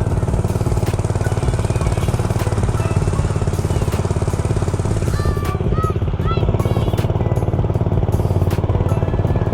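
Dirt bike engine running steadily, close up, with an even rapid firing pulse and no let-up.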